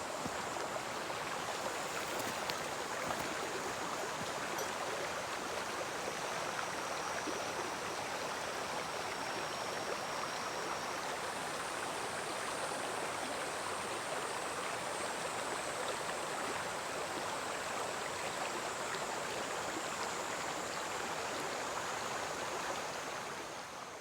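Mountain stream flowing over a rocky riverbed, a steady rush of water, with a thin, steady high-pitched tone above it. The sound fades out near the end.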